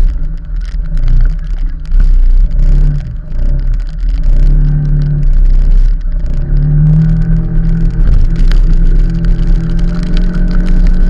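Motor vehicle engine running and picking up speed during a ride, its note rising and holding from about seven seconds in, over heavy low wind rumble on the microphone.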